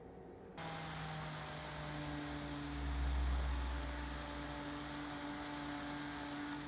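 An electric motor running steadily, a hum with a broad hiss, cutting in suddenly about half a second in; a deeper rumble swells for a couple of seconds in the middle.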